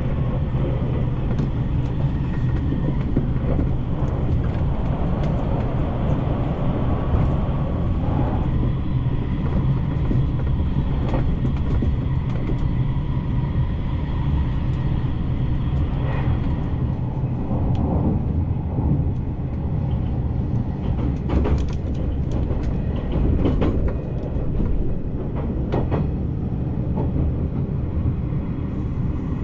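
JR Shikoku 8000-series electric train running on the line, a steady low wheel-and-rail rumble with a few sharp clicks from the rails about three quarters of the way through.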